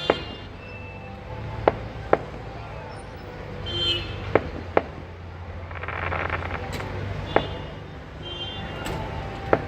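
Fireworks going off: about seven sharp bangs at irregular intervals, over steady town traffic noise with a few short vehicle horn toots.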